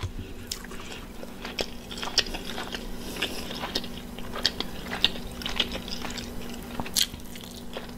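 Close-miked eating sounds: biting into and chewing an oven-fried chicken wing, a run of many small wet clicks and smacks.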